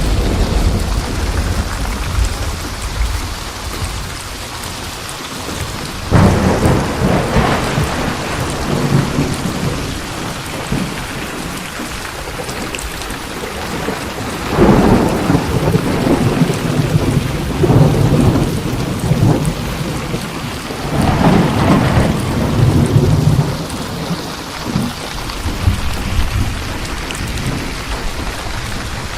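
Steady heavy rain hissing through a thunderstorm, with several rolls of thunder rumbling over it. The rolls break about six seconds in, around fifteen, around eighteen and around twenty-one seconds.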